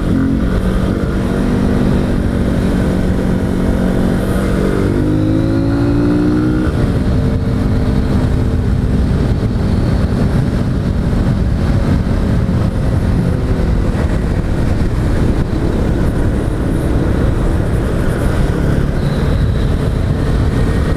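Honda Bros 160 single-cylinder engine under way with the air-box intake snorkel removed. Its tone holds steady, then rises as the bike accelerates about four seconds in, and afterwards the engine sits low under a steady rush of wind and road noise.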